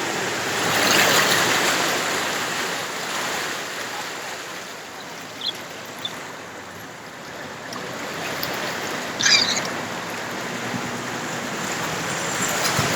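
Steady rush of flowing floodwater, swelling about a second in and again near the end, with a few brief sharper sounds in between.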